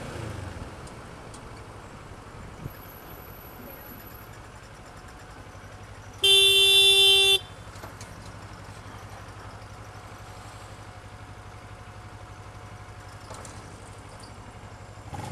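A motorcycle running steadily on the road, with one loud vehicle horn blast of a little over a second about six seconds in.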